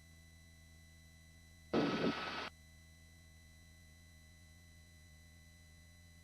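Helicopter intercom feed carrying a low steady hum. About two seconds in, a microphone cuts in for under a second and lets through a short burst of rotor and engine noise, then cuts off sharply.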